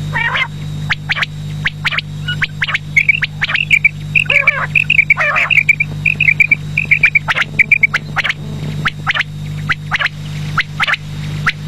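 Quail calling: many short, sharp notes with quick runs of chirping trills, over a steady low hum.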